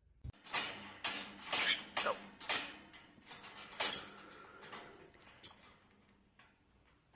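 A small animal making a run of short noisy sounds, roughly two a second, with two brief high squeaks.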